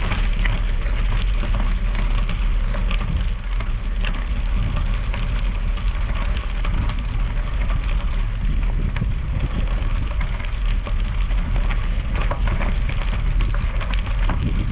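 Steady wind rush on the microphone of a moving gravel bike, with bicycle tyres crackling over loose gravel throughout.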